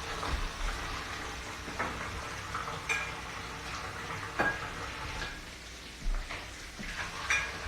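Hot oil sizzling steadily in a frying pan, with a few sharp clinks of utensils against cookware.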